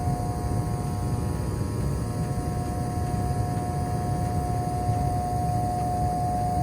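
Carrier gas furnace motor buzzing steadily: a constant high whine over a low rumbling hum, without change.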